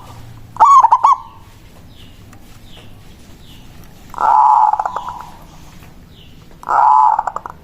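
Zebra dove (perkutut) song, the kind played as a lure call: three calls, each a quick run of rolling notes. The first is short, about half a second in, and two longer calls follow at about four seconds and near the end.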